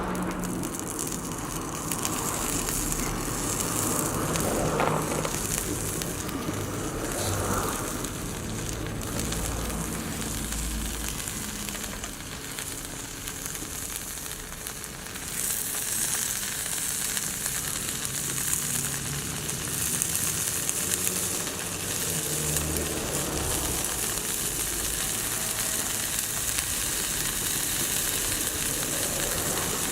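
Food frying in a skillet over a wood campfire: a steady sizzle and hiss that grows louder about halfway through.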